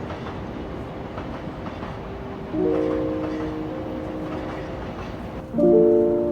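Railway ambience with rumbling noise and small clicks. About two and a half seconds in, a sustained tone of several notes starts, typical of a train horn. Near the end, a louder chord of background music comes in.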